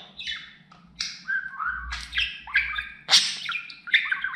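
Budgerigar chattering and warbling: a quick run of chirps and harsh, squawky notes with sliding pitch and no clear words.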